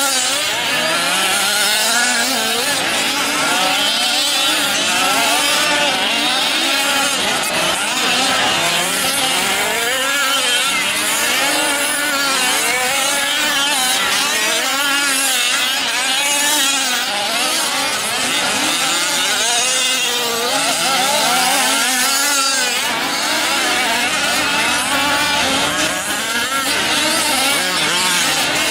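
Several 1/5-scale RC trucks' small two-stroke gasoline engines racing together, their pitches climbing and falling over one another as they rev through the course.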